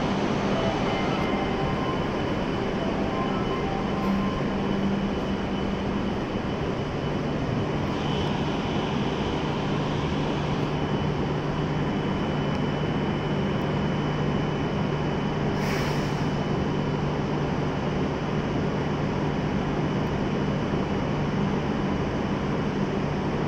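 Steady hum of an E7/W7-series Shinkansen standing at the platform with its onboard equipment running: an even drone with a low steady tone and a faint high whine. A brief sharp hiss about sixteen seconds in.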